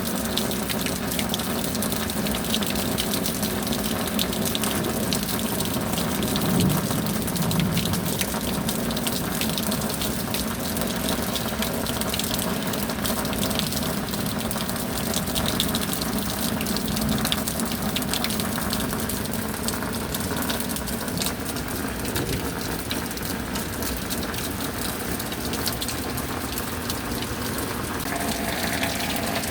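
Steady rain falling, a dense patter of drops over an even rush of water.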